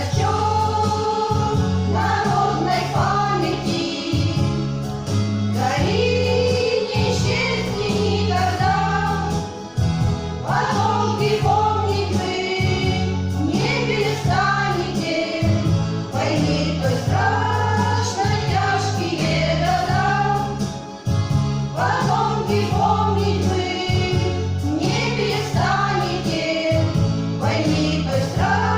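Women's vocal ensemble singing together over instrumental accompaniment with a rhythmic bass line, in phrases of a few seconds each.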